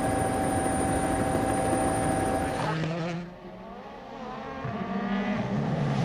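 Rally car engine sound from the WRC footage. First there is a loud, steady run at high revs; then, after an abrupt cut about two and a half seconds in, a car accelerates, its engine note rising, dropping briefly at a gear change, and rising again.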